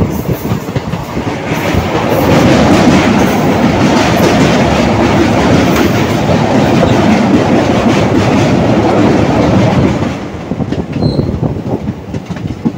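Passenger train coaches running on the rails, heard from an open doorway. A loud clattering rumble swells about two seconds in while the train crosses a bridge, then drops about ten seconds in as it comes off, leaving separate wheel clicks over the rail joints.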